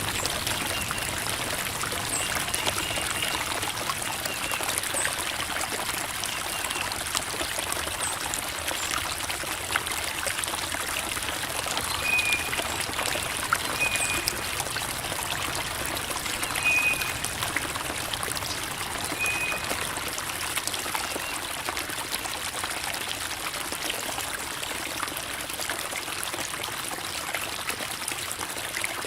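Creek water babbling and trickling over rocks in a steady flow, with a few short high chirps near the middle.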